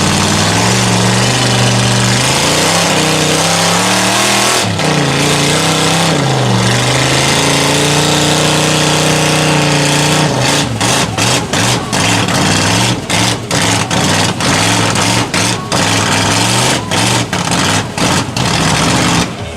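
A mud truck's engine revving loud and hard, its pitch climbing and falling for several seconds, then breaking into a rapid series of short surges and cut-outs through the second half.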